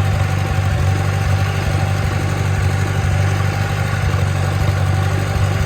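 1954 Farmall Super C tractor engine running steadily under light load as the tractor creeps along in first gear, a low, even chug.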